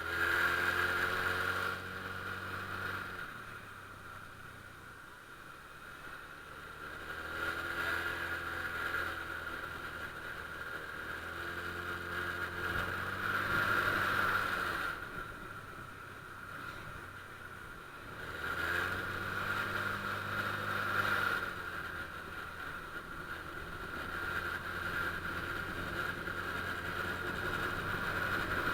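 Honda Click scooter engine speeding up and easing off about four times while riding, its pitch climbing with each acceleration. A steady high whine runs underneath.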